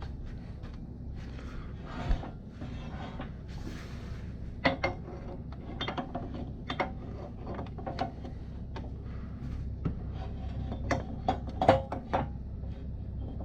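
Irregular metallic clinks and knocks of tools and metal parts being handled, several with a brief ring, loudest near the end.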